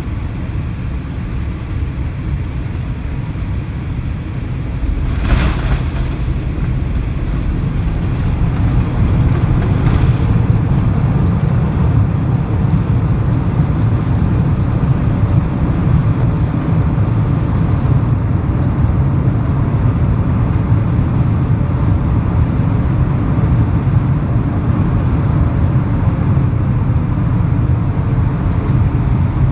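Cabin noise of a Boeing 787-8 Dreamliner landing: a steady low rumble, a sudden jolt about five seconds in, then a louder, heavier rumble that holds, typical of touchdown and the landing roll.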